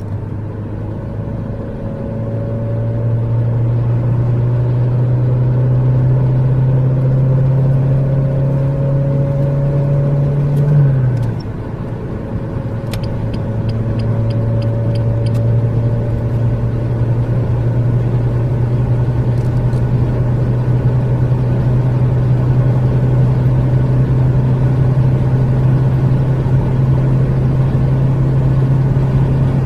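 Renault Mégane II 1.5 dCi four-cylinder turbodiesel pulling hard through the gears, its engine note climbing slowly; about 11 seconds in a gear change drops the pitch and level briefly, then the note climbs again.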